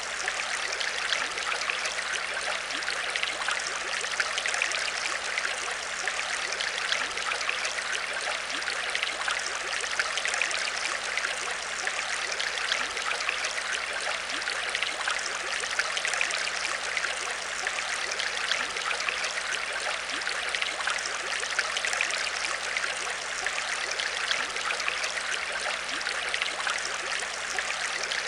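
Aquarium water trickling and splashing steadily, a dense fizz of small drips and bubbles, with a faint steady low hum underneath.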